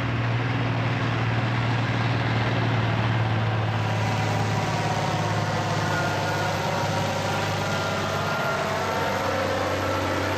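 A heavy engine running steadily and loudly, with a constant deep hum and a dense noisy spread above it that grows brighter about four seconds in. This is most likely a competition pulling tractor's engine.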